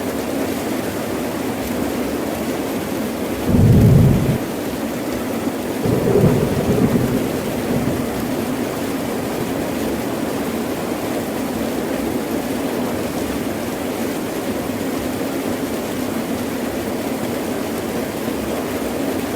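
Heavy rain falling steadily, with two low rolls of thunder: a short one about three and a half seconds in and a longer one about six seconds in.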